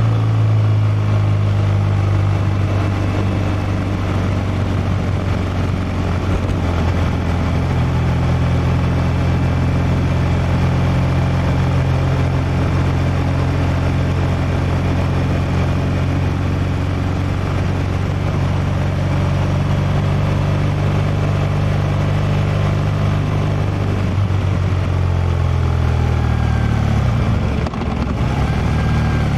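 Liquid-cooled boxer twin of a 2016 BMW R1200R running at steady cruising revs under way, with wind rush over the helmet-mounted microphone. Near the end the revs drop briefly, with a short dip in the sound, then rise again.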